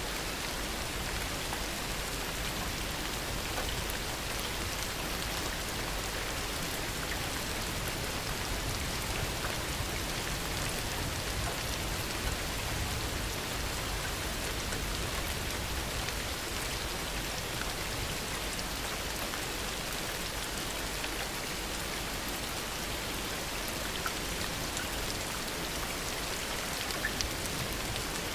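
Steady heavy rain falling, an even hiss with scattered nearby drop ticks.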